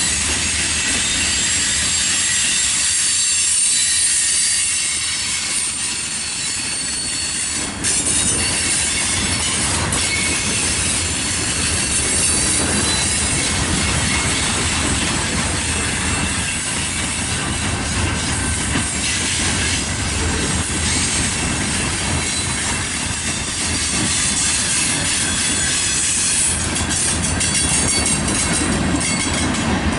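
Freight cars of a mixed manifest train rolling past close by: a continuous rumble of steel wheels on rail with a thin, high-pitched squeal over it, and a couple of sharp clanks about eight and ten seconds in.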